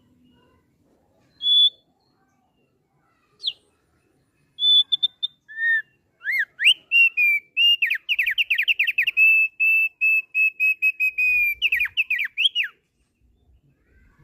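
Thick-billed opior singing: a few separate clear whistled notes, then a sweet, rapid song of quick down-slurred notes and a steady high trill lasting about six seconds before it stops abruptly.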